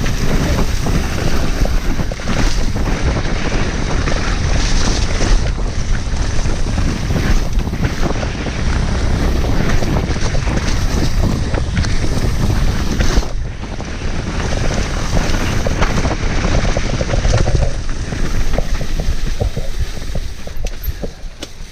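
Wind buffeting the microphone of a camera riding along on a mountain bike, over a dense clatter of the bike's tyres, chain and frame knocking on rough, muddy ground. The level dips briefly about thirteen seconds in.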